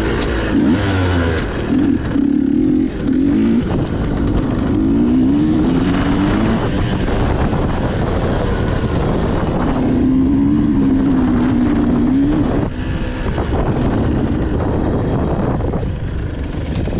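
Motocross dirt bike engine revving as it is ridden, its pitch rising and falling again and again with the throttle.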